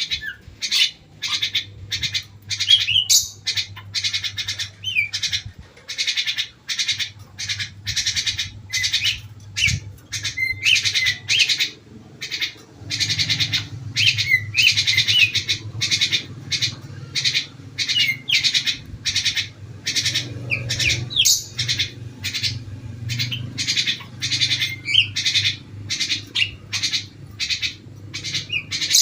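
Several birds calling together with rapid, harsh chirps about twice a second, with short whistled notes mixed in, over a faint low steady hum. The owner takes the constant calling to be hunger rather than full song.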